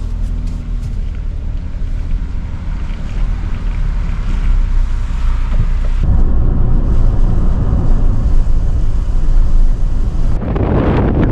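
Strong wind buffeting the microphone as a loud, rumbling roar. The sound shifts abruptly about six seconds in and again near the end.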